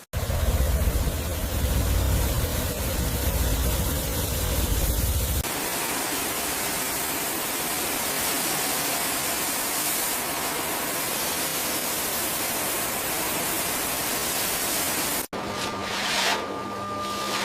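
Steady loud hiss of a high-pressure spray, with a deep rumble under it for the first five seconds or so. The sound changes abruptly twice, at edits.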